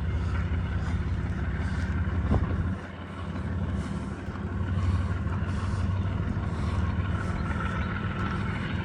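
GE diesel-electric locomotive, the distributed power unit pushing at the rear of a freight train, working under power as the train gets underway, with a steady low drone.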